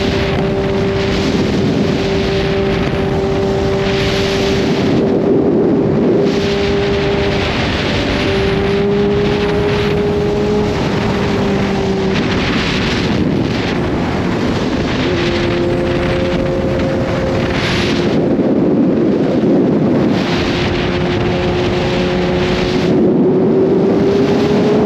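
Kawasaki Z H2's supercharged inline-four engine running at a steady cruise, with wind rushing over the microphone. The engine note drops a little about halfway through and starts to rise near the end as the bike speeds up.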